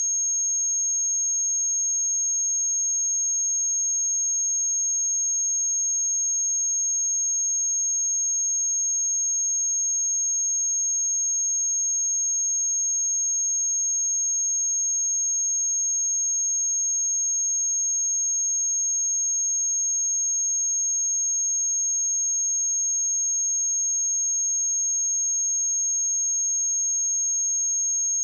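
A steady, unbroken 6503 Hz sine-wave test tone: a single high-pitched pure tone at constant loudness, used to check speakers and headphones.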